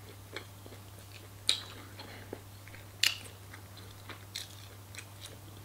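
Close-up mouth sounds of chewing crispy fried chicken: small wet clicks and crunches, with two louder crunches about a second and a half and three seconds in. A low steady hum runs underneath.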